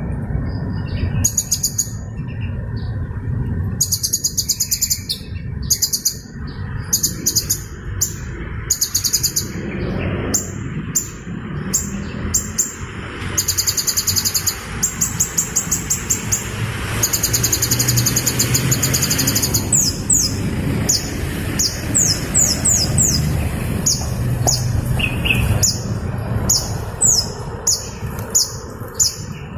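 Hummingbird calling in high, thin chips: bursts of rapid repeated notes, giving way about two-thirds through to short, quick, downward-sliding chirps. A steady low background hiss runs underneath.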